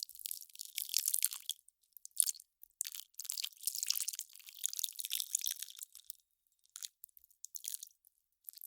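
Ice crackling and popping as it melts: dense bursts of tiny, high crackles with short pauses between them, thinning out near the end.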